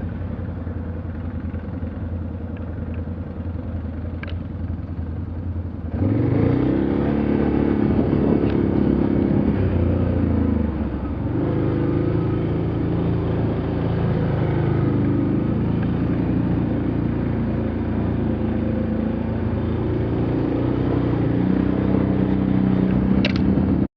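Off-road vehicle engine running steadily, then revving harder from about 6 s in, its pitch rising and falling repeatedly as it is driven under load over rough ground.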